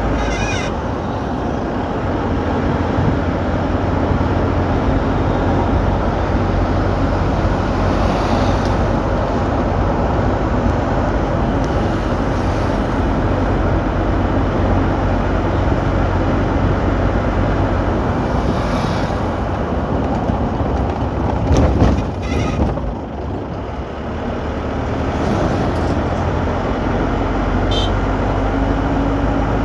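A car being driven: steady engine and road noise throughout, with a brief louder rattle about three quarters of the way in, then a quieter couple of seconds before the steady noise returns.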